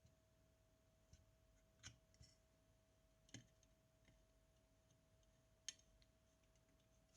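Near silence: a faint steady hum with four faint, sharp clicks of small parts or tools being handled, spaced irregularly across several seconds.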